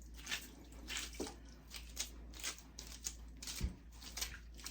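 Water splashing and sloshing in short, irregular bursts as wet wigs are handled by hand during washing.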